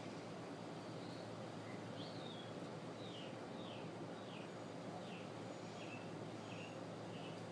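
Steady low hiss with a small bird calling faintly behind it. From about two seconds in, the bird gives a run of short, high chirps that fall in pitch, about two a second.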